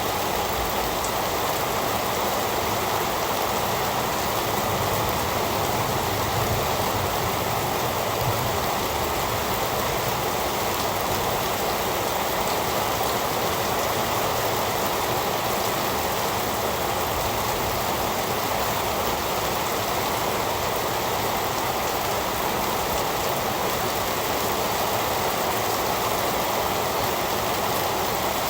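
Heavy rain falling steadily, an even hiss with no thunder or other events.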